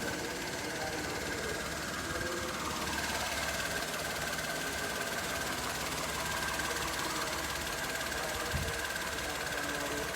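Toyota Vitz KSP90's 1.0-litre three-cylinder petrol engine idling steadily, with a fast, light mechanical ticking and a thin steady whine over the running.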